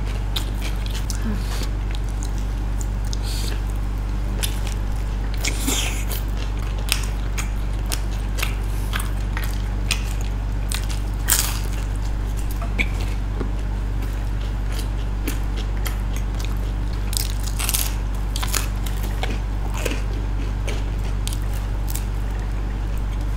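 Two people biting and chewing pizza slices close to the microphone: many short, irregular crunches and mouth clicks, over a steady low hum.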